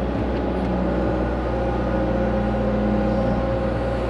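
Diesel engine of a small digging machine running steadily under load while the bucket digs.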